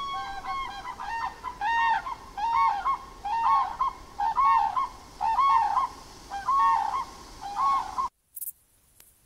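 Grey crowned cranes calling over and over, roughly one to two calls a second, each call rising and then falling in pitch. The calls stop abruptly about eight seconds in.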